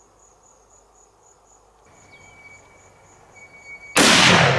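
Crickets chirping in a steady, rapidly pulsing high trill, with a second thin steady tone joining about halfway through. About four seconds in, a sudden loud burst of rushing noise cuts in over them.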